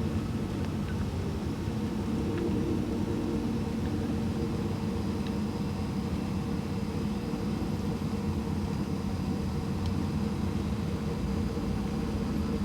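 Steady car hum from engine and road, heard from inside a car rolling slowly along in traffic.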